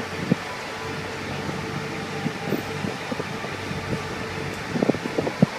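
Motorcycle engine running at low speed, a steady drone, with a few short sharp knocks, several of them close together near the end.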